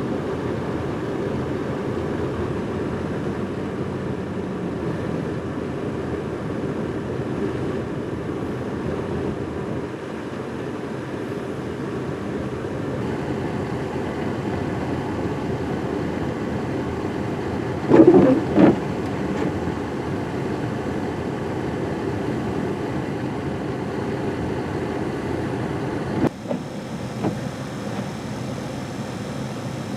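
Steady low rushing noise of a car running, with two short louder bumps about 18 seconds in and a sudden change in the noise about 26 seconds in.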